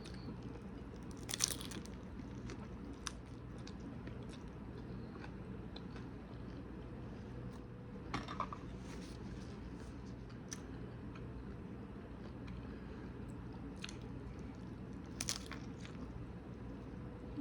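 Someone eating tacos: a few short, crisp crunches of bites and chewing, spread out over a steady low hum.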